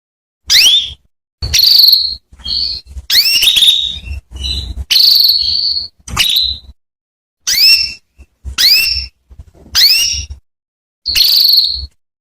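Female domestic canary giving a string of call notes, about one a second with short silences between: most sweep quickly upward and end on a brief high note, a few are held longer. These are female calls used to draw a male canary into singing.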